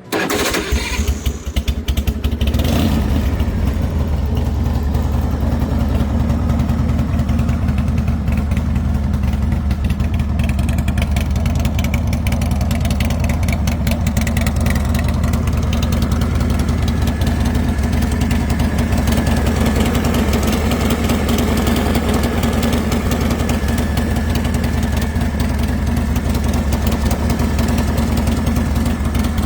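2003 Big Dog Mastiff motorcycle's V-twin engine running unevenly for the first couple of seconds, then idling steadily.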